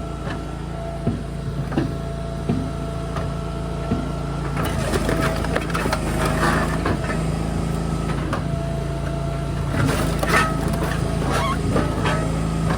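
An engine running steadily with a thin whine over it; from about four and a half seconds in, a run of irregular knocks and clattering thuds, like split firewood tumbling and knocking together.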